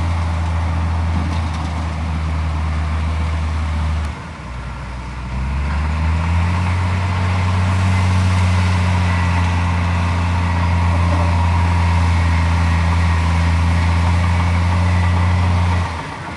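Heavy diesel engine of earthmoving machinery running under load. Its note drops briefly about four seconds in and climbs back, then dips again near the end.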